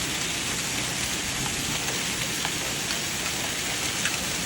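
Hail and heavy rain pelting down: a steady, dense hiss with scattered sharp ticks of single stones striking hard surfaces.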